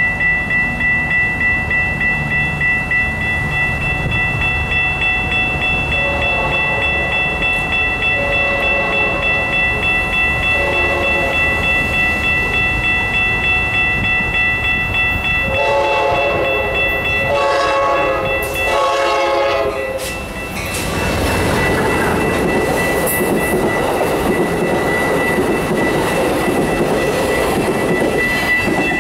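Amtrak passenger train horn sounding several faint, distant blasts, then two loud long blasts about sixteen seconds in, followed by the train passing through the station at speed with a dense rushing noise of wheels and cars for about eight seconds. Under it all, grade-crossing warning bells ring steadily.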